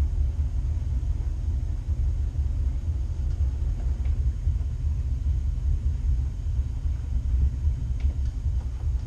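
Low, uneven rumble of wind buffeting the microphone on a boat, with a couple of faint ticks.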